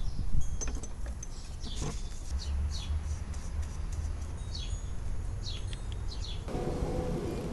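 Small birds chirping now and then over a steady low rumble, with a few light clicks of handling near the start.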